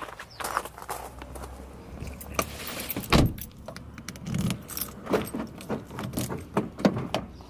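Keys jangling and rattling in a series of short clicks, with one heavy thump about three seconds in.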